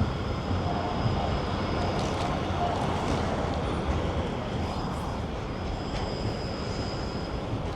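Steady city street noise: road traffic running, with a dense low rumble.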